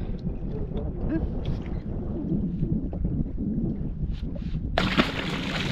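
Steady low rumble of wind on the microphone aboard a drifting fishing boat, with a sudden loud hiss lasting about a second near the end.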